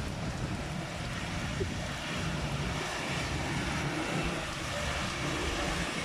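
Steady outdoor rain-and-traffic noise: rain falling with road vehicles running, under an even low rumble.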